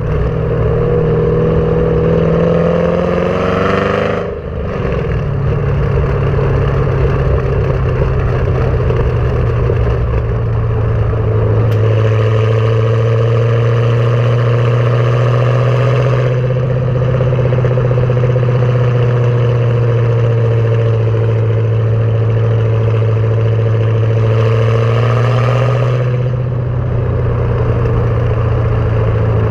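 LS3 V8 exhaust of a Camaro SS through Kooks long-tube headers and a Borla ATAK cat-back, running loudly. It climbs in pitch, dips briefly about four seconds in, then holds a steady low note, rising a little and dipping again near the end.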